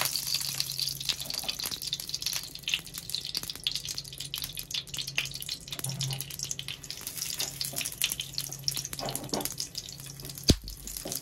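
Ghee sizzling and crackling on a non-stick tava as roat cakes fry over a low flame, with a steady low hum underneath and a single thump near the end.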